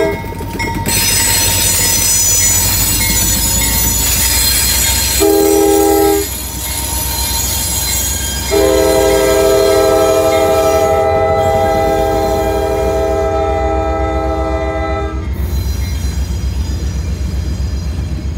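Passing freight train. The diesel locomotive's air horn gives a short blast about five seconds in and a long blast from about eight to fifteen seconds in, ending the long-long-short-long grade-crossing signal. Underneath is the rumble and rhythmic clack of the freight cars' wheels on the rails, with high-pitched wheel squeal in the first few seconds.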